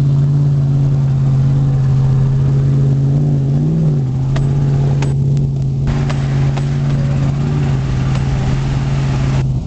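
Pickup truck engine running at steady, fairly high revs, with a brief rise and fall in pitch about three and a half seconds in and a few sharp knocks around the middle.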